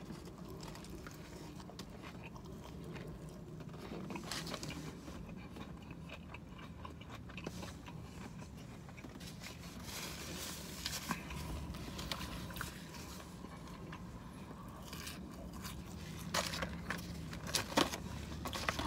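A man quietly chewing a big bite of crispy fried chicken sandwich topped with coleslaw, with faint crunches of the breading.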